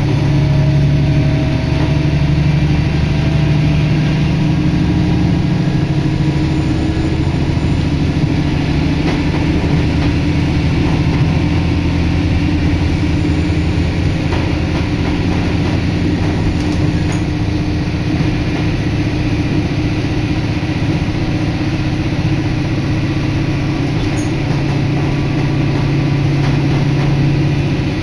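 Diesel railcar under way: a steady engine drone over the rumble of wheels on the rails, heard from inside the carriage.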